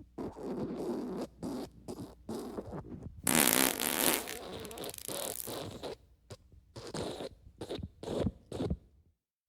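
A string of wet, sputtering fart sound effects, one after another. The loudest and longest comes about three seconds in, and shorter puffs follow with gaps near the end.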